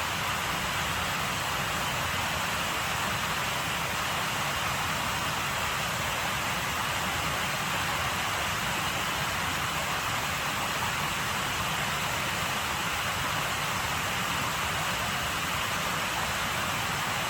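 Steady rushing noise of falling water, even and unchanging throughout.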